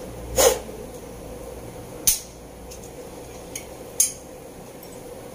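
Metal tools and engine parts being handled and set down, giving four sharp clinks and knocks. The loudest comes about half a second in. A faint steady hum runs underneath.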